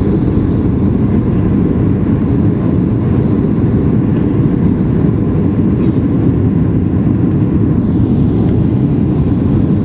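Steady cabin noise of a Boeing 737-800 in flight on approach: an even, deep roar of its engines and airflow, heard from inside the cabin.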